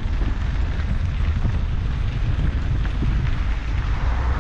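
Wind buffeting the camera's microphone while cycling: a steady low rumble with a hiss of moving air.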